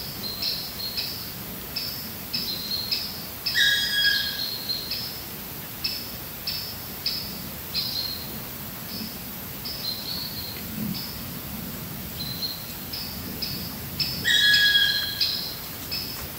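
Songbirds calling in bare woodland: a steady series of short, high chirps about two a second, with a louder, fuller call twice, about four seconds in and a couple of seconds before the end.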